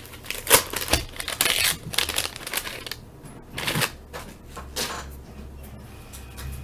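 A 1983 Topps wax pack being torn open: the waxed paper wrapper crinkling and crackling in a quick run of short snaps, with the cards being handled. It settles to quiet handling after about five seconds.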